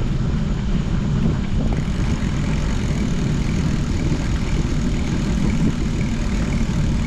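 Steady wind rumble buffeting the camera microphone while riding a bicycle, a dense low rumble that doesn't let up.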